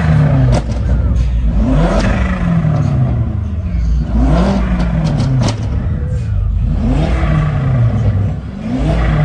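A car engine being revved in repeated blips, about every two and a half seconds: each rev climbs quickly and then falls back. Scattered sharp cracks are mixed in.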